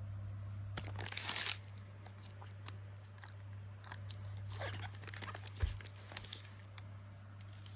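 Crinkling and rustling of packaging being handled, in two spells, with a single dull thump a little over halfway through. A steady low hum runs underneath.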